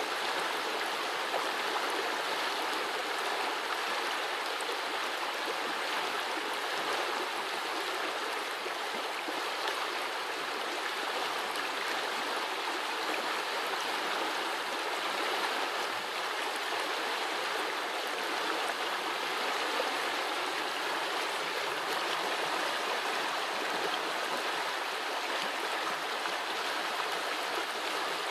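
A small forest brook running and babbling steadily over its bed.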